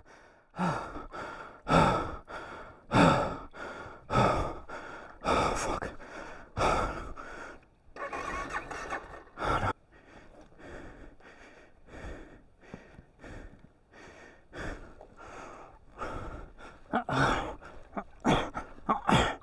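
A man breathing hard and grunting with effort, a heavy breath every second or so, while struggling with a motorcycle dropped and drowned in a creek. A couple of seconds of rushing noise come about eight seconds in.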